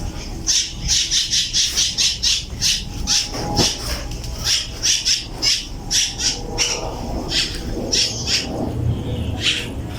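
A bird chirping over and over, short high calls about two or three a second, over a low steady rumble.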